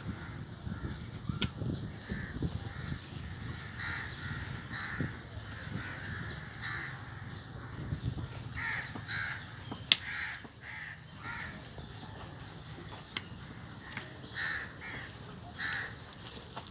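Birds calling over and over in short, repeated calls, with a low rustling and knocking in the first half and one sharp click about ten seconds in.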